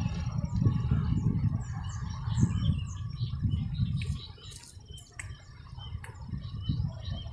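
Small birds chirping in short, repeated calls, over a gusty low rumble of wind on the microphone that eases off about four seconds in. A few sharp clicks come near the middle.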